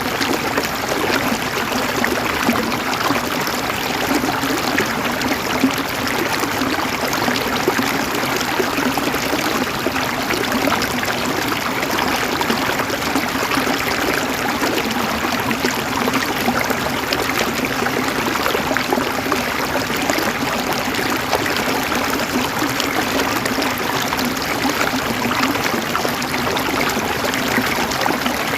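Flowing water running steadily, with constant fine splashing and babbling.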